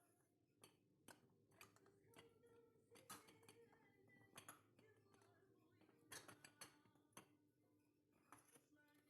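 Faint, scattered light clicks and taps of small objects being handled, about ten in all, over a low steady hum.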